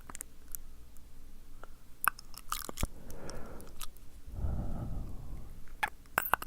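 Close-miked wet mouth sounds: sharp lip smacks and tongue clicks, bunched in quick runs, with soft breathy rushes onto the microphone in between.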